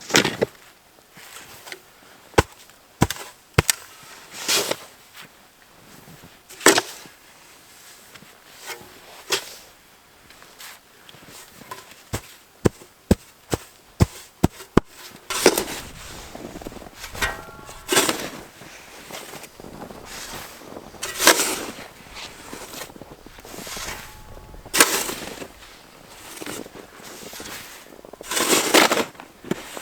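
Hand work anchoring a tent's guy lines in snow and frozen, gravelly ground: a run of sharp knocks and clicks over the first half, then longer scraping, crunching bursts every few seconds in the second half.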